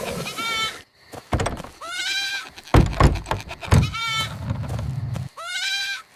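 A fawn bleating, four calls spaced about a second and a half apart, with a few dull thuds between them.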